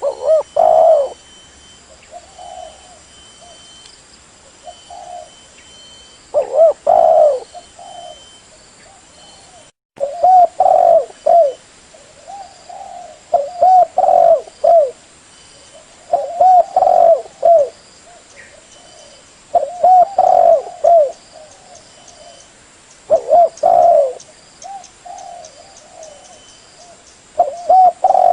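Spotted dove (terkukur) cooing: a loud phrase of several coos every three seconds or so, with softer coos between. The sound drops out briefly about ten seconds in.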